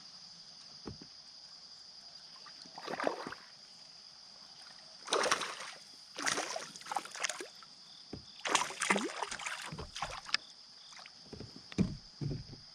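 Kayak paddle strokes in creek water: a series of irregular splashing strokes, with a couple of low knocks near the end. A steady high-pitched hum runs underneath.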